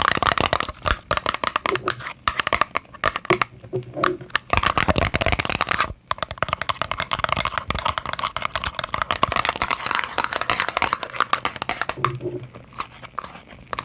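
Fingernails tapping and scratching rapidly on a small cosmetics packaging box close to the microphone, with crinkly rustling, pausing briefly about six seconds in.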